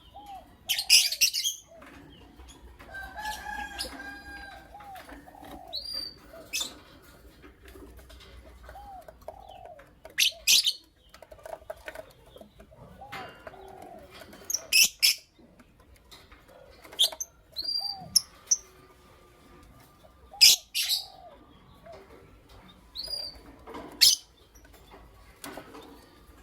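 Lovebirds calling: sharp, shrill chirps every few seconds, with softer chattering notes in between.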